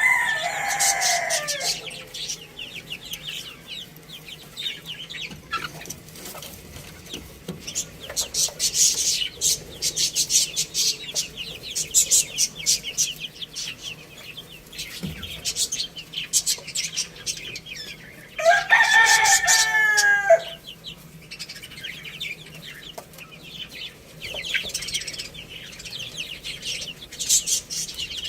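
A rooster crows once, a pitched call of about two seconds about two-thirds of the way through, with the falling end of an earlier crow at the very start. Bouts of rapid, high chirping from small birds come and go throughout.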